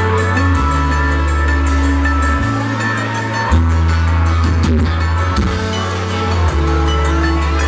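Live country band playing an instrumental passage, with held bass notes that shift every second or two under a steady drum beat, in a loud, poor-quality audience recording.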